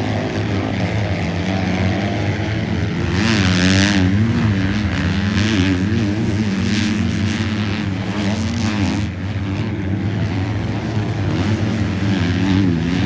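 Several 250-class motocross bikes racing, their engines revving up and down as the riders shift and throttle. A louder, hissier pass comes about three seconds in.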